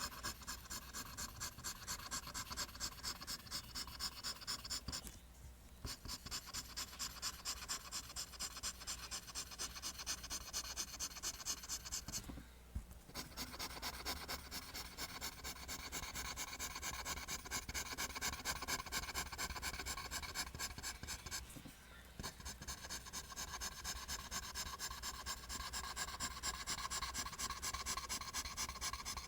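Pencil drawing lines on paper in quick, regular back-and-forth strokes, with brief pauses three times as the pencil is lifted.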